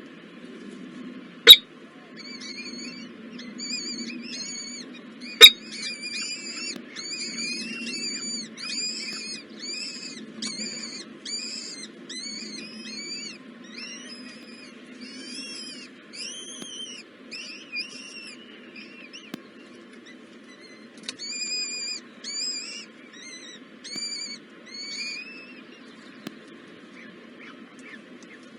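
Nestling birds chirping: a long run of rapid, repeated high chirps, pausing briefly about two-thirds of the way through. Two sharp clicks in the first few seconds are the loudest sounds.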